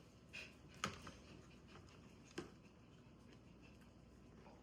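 Near silence: room tone with a few faint, short clicks or taps.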